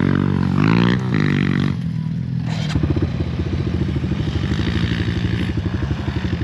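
Dirt bike engine running: it rises and falls in pitch for the first second or so, then settles into a steady, even idle from about three seconds in.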